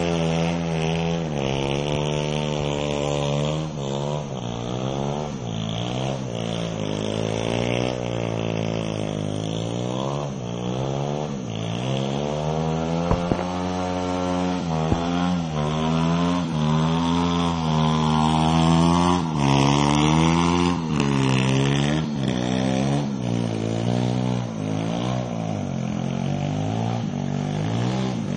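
Thumpstar 110cc single-cylinder four-stroke pit bike engine revving up and down over and over, its pitch rising and falling every second or two. Two sharp clicks come about halfway through.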